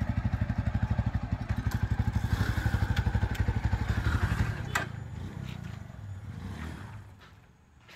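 Yezdi Adventure's single-cylinder engine idling with an even, rapid beat. A sharp knock comes about five seconds in, after which the engine sound is much quieter and fades away.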